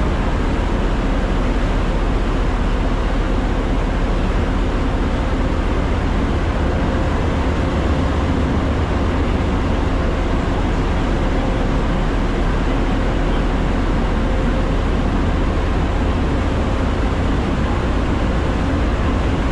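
Steady, loud rumble and rushing noise of a vehicle under way, with a deep low drone and no breaks.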